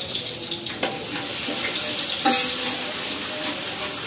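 Ground spice paste (bumbu) sizzling steadily in hot oil in a wok, with a couple of sharp scrapes and clinks from the metal spatula stirring it.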